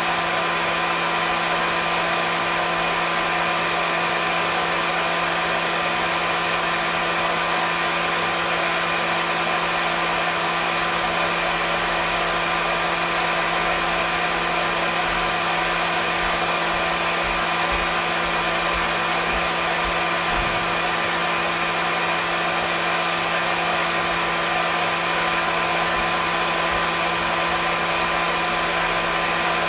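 Hair dryer running continuously: a steady airflow rush with a constant motor hum and whine.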